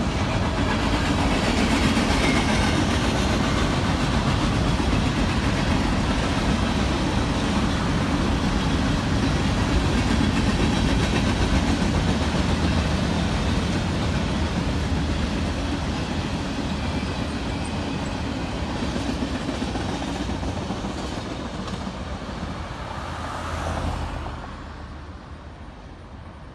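Freight cars of a long mixed freight train (tank cars, boxcars and covered hoppers) rolling past, a steady noise of steel wheels on rail. It swells briefly as the end of the train passes, about 24 seconds in, then drops away.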